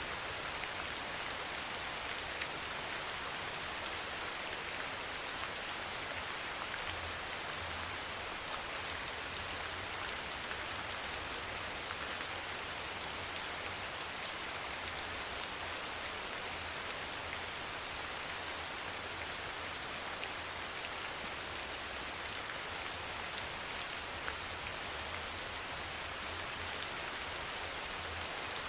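Steady rain falling on a surface, an even hiss with many small drop ticks through it and no change in intensity.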